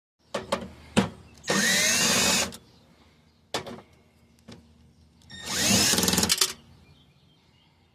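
Power drill running in two bursts of about a second each, backing screws out of a scrap furnace's sheet-metal casing, with a few sharp clicks and knocks before and between.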